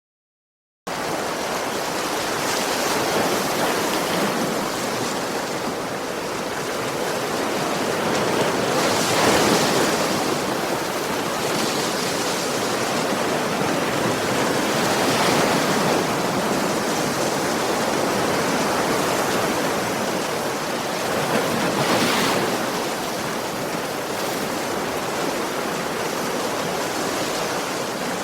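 Ocean surf washing on a shore, starting suddenly about a second in: a steady rush of breaking waves that swells with a bigger wave every six or seven seconds.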